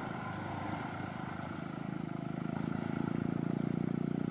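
Diesel engine of a loaded Hino Dutro light truck working hard on a slippery uphill climb, running steadily and getting louder about two and a half seconds in.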